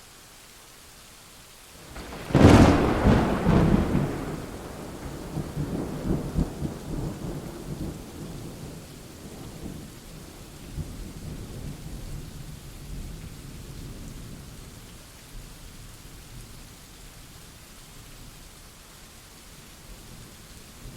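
Thunderclap about two and a half seconds in: a sudden crackling crack that rolls into a long, slowly fading rumble, over steady rain.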